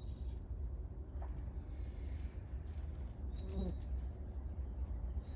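Outdoor ambience: a steady high-pitched insect drone, like a cricket's, with a low rumble underneath and a few faint short chirps.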